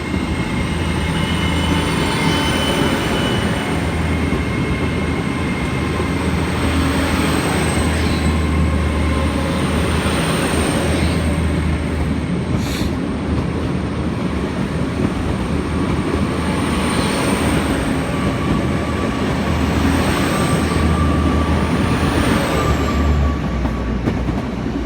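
Ten-coach pair of GWR Class 802 bi-mode trains pulling out past the platform under diesel power: a loud steady drone from the underfloor engines and rolling wheels, swelling every few seconds as each coach goes by, with a thin high-pitched wheel squeal.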